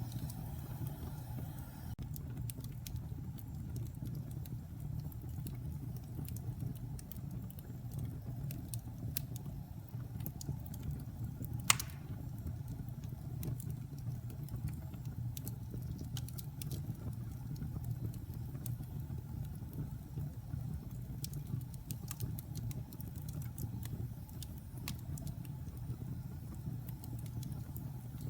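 Wood logs burning in a fireplace: a steady low rumble of flame with scattered crackles, and one loud pop about twelve seconds in.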